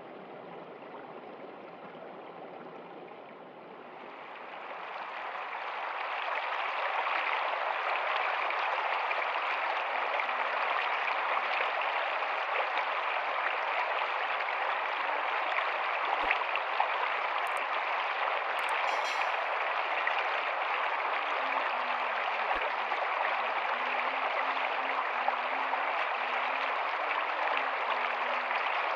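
Rocky stream flowing, a steady even rush of running water that fades in over the first several seconds and then holds steady.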